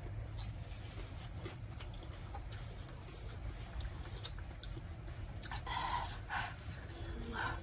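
People eating spicy noodles: mouth sounds of slurping and chewing, with a few short louder slurps about two-thirds of the way through and again near the end.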